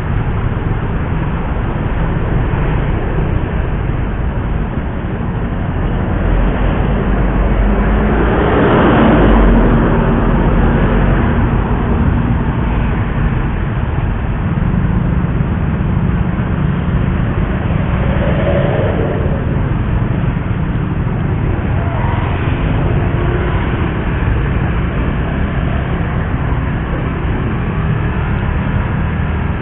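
Suzuki GSX-R150's single-cylinder engine running steadily under way, mixed with heavy wind and road rush. About eight to ten seconds in the noise swells louder.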